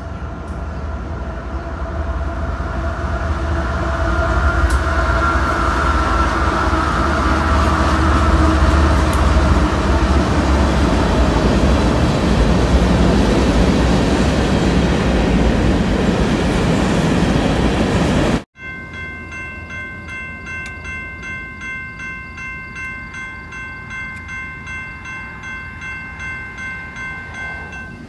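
Freight train rolling past close by: a loud rumble and rattle of wheels and cars that builds over the first few seconds and then holds steady. About two-thirds of the way through it cuts off abruptly, giving way to a quieter sound of steady high tones that pulse at a regular beat.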